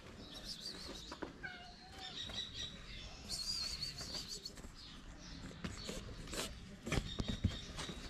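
Small birds chirping and twittering, short high notes and a warbling run in the middle, with a few dull thumps near the end.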